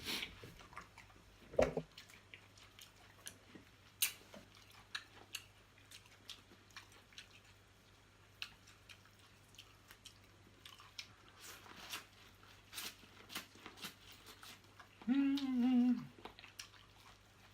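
Close-up chewing and biting on corn on the cob, with scattered wet mouth clicks and smacks. About fifteen seconds in, a short hummed "mmm" of enjoyment.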